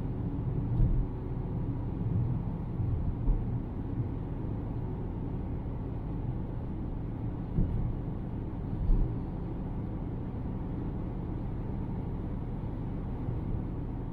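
A car driving on the road, heard from inside the cabin: a steady low rumble of tyres and engine, with a few brief low thumps.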